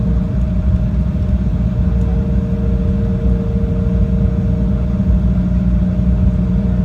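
Jet airliner cabin noise: a loud, steady low engine rumble with two steady hums above it.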